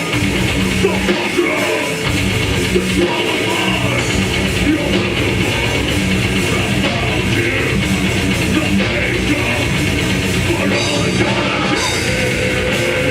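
A death metal band playing live: distorted electric guitars, bass and drums, loud and continuous.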